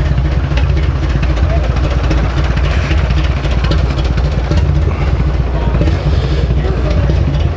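A vehicle engine idling with a deep, steady rumble, with the voices of people around it.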